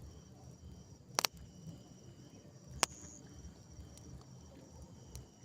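Crickets and other night insects trilling steadily in a high, even chorus, with two sharp clicks about a second and almost three seconds in.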